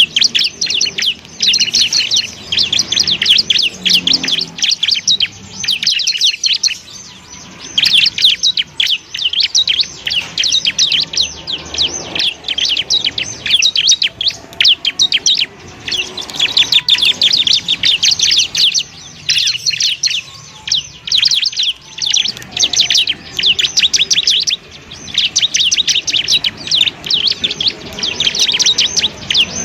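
Bar-winged prinia (ciblek) singing: long runs of rapid, high-pitched chirping notes, broken now and then by short pauses.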